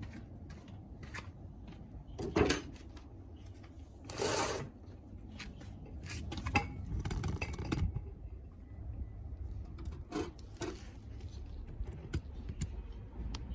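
Metal tools and parts being handled during an oil and filter change: scattered clicks and knocks, with a short scrape about four seconds in and a sharp knock a little past two seconds.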